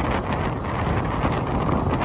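Steady wind rush buffeting the microphone of a moving motorcycle, with road noise underneath.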